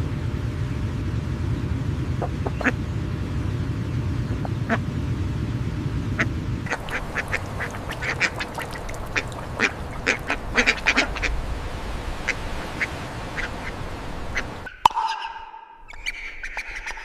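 Ducks quacking: a flurry of short calls in quick succession over a steady low rumble, starting about a third of the way in. Near the end the rumble cuts off abruptly.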